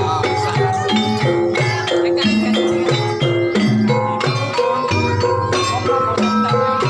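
Banyumasan gamelan-style accompaniment for an ebeg horse dance: a steady rhythm of hand-drum strokes under ringing tuned mallet percussion.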